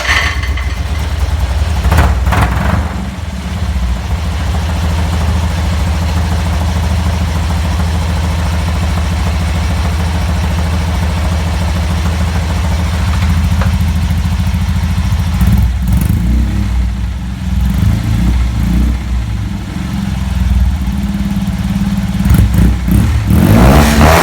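Rebuilt and tuned Fiat 126 650cc air-cooled two-cylinder engine with a D'Angelo exhaust, idling with a low rumble. The throttle is blipped briefly about two seconds in, the idle runs unevenly in the second half, and there are quick revs near the end.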